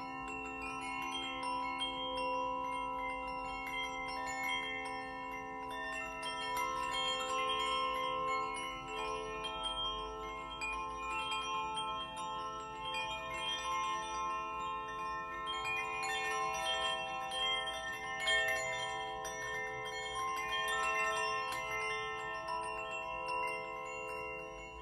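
Small bells and chimes ringing in many overlapping, long-sustained notes with light tinkling strokes, over a steady low ringing tone like a singing bowl's hum.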